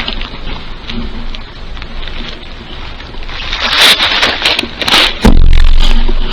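Rustling and scraping, then a sudden loud thump about five seconds in, followed by a brief deep rumble.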